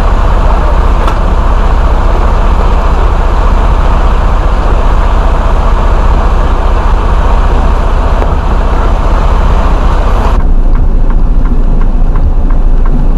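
Semi truck running, a loud, steady rumble with hiss over it; the hiss cuts off suddenly about ten seconds in.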